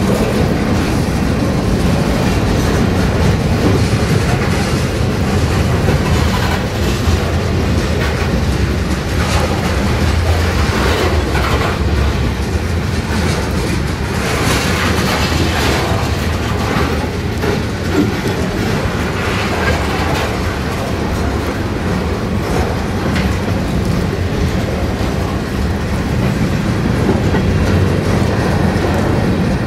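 Freight cars of a mixed manifest train rolling past close by. A steady rumble, with the wheels knocking in quick succession over the rail joints.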